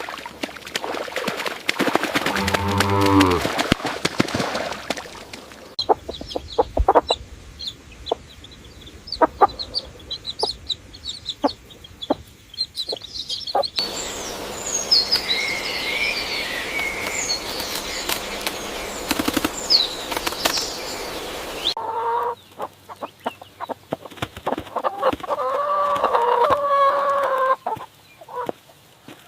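Chickens clucking and calling, with high short chirps in between, in several short segments that change abruptly.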